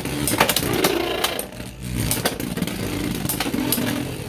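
Two Beyblade X spinning tops, Stone Mont Blanc and Hells Hammer, whirring as they spin in the stadium and repeatedly clashing, with many sharp clacks of impact over the steady whir.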